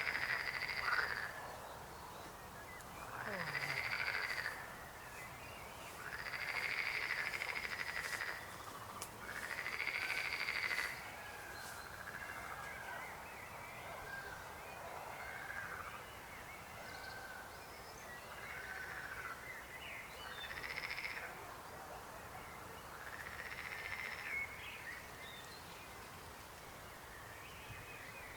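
Frogs croaking: a loud call roughly every three seconds, each lasting a second or more, over fainter calls from other frogs. The loud calls stop about eleven seconds in, leaving the fainter ones.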